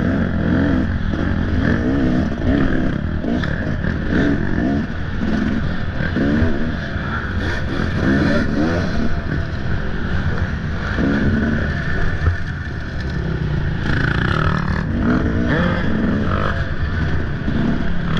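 Off-road motorcycle engine revving up and down over and over as the throttle is opened and closed.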